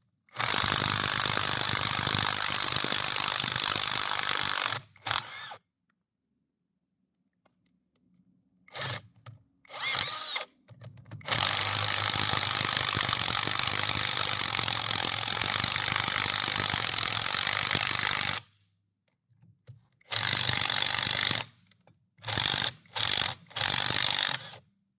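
Cordless JLD 48V impact wrench hammering in repeated trigger bursts while it works bolts loose: a run of about four seconds, a longer run of about seven seconds in the middle, and several short pulls, with silent pauses between.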